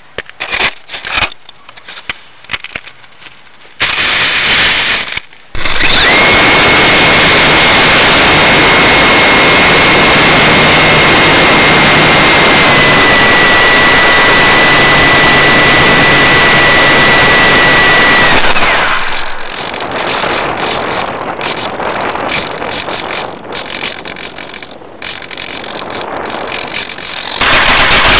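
RC truck's electric drive run hard for about 13 seconds: a loud rushing noise with a steady high whine that dips slightly in pitch partway through, after a few scattered knocks and a short loud burst. It then drops to a quieter, rougher running noise with knocks and surges loud again near the end.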